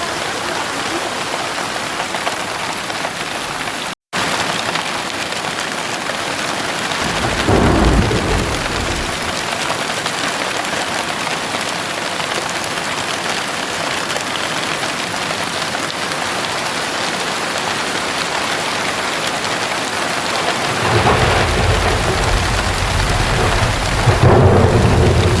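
Heavy rain falling steadily, with thunder rumbling twice: a short rumble about seven seconds in and a longer, louder one from about twenty-one seconds in. The sound cuts out for an instant about four seconds in.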